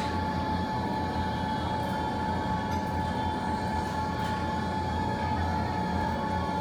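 Fireplace fire burning, a few faint crackles over a steady low rumble and a constant high-pitched hum.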